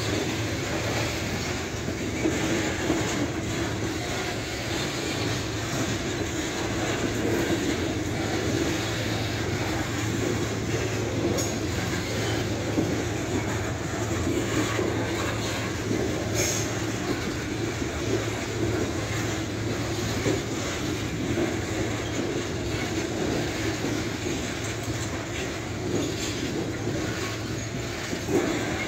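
Freight train of covered hopper cars rolling past at close range: a steady rumble of steel wheels on rail, with an occasional sharp click.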